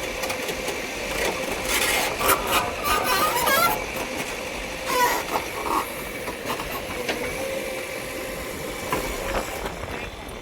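An engine running steadily, with intermittent clatter and clicks.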